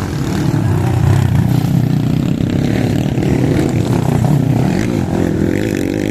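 Motorcycle engine running hard and revving, loud and steady, growing louder about half a second in.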